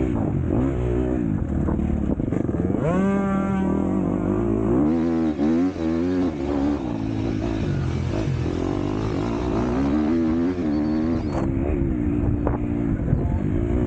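MX2 motocross bike engine revving hard, its pitch rising and falling over and over with throttle and gear changes, with one quick climb in revs about three seconds in.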